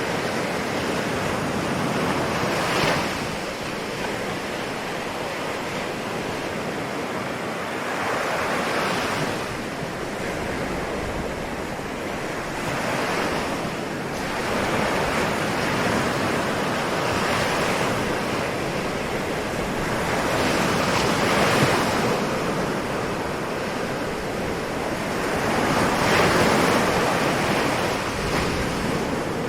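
Ocean waves breaking and washing on a shore in a steady surge, with a swell rising and falling every four to six seconds.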